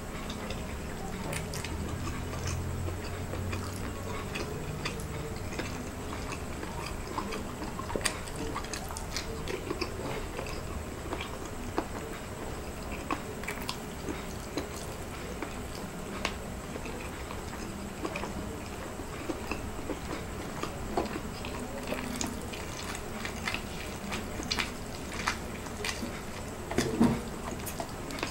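A person eating rice and sauce-coated balut by hand: chewing and wet lip smacks, with many scattered short clicks and a louder cluster of smacks near the end.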